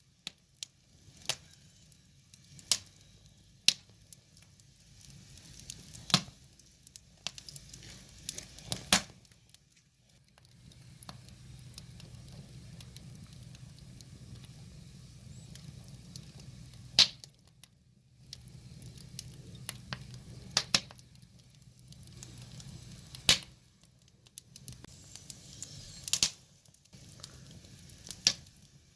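Wood fire crackling, with irregular sharp pops and snaps from the burning logs over a faint hiss. A low rumble sits under the crackle for several seconds at a time in the middle stretch.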